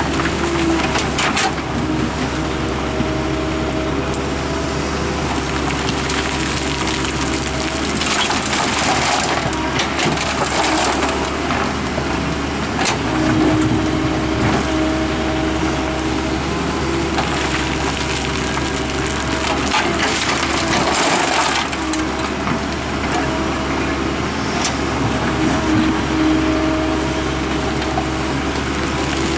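Heavy diesel earthmoving machinery (excavator and dump trucks) running steadily at a worksite, with stretches of hissing noise twice.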